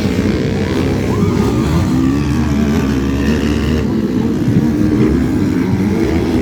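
Several motocross bikes racing, their engines revving up and down over one another as they accelerate and shift.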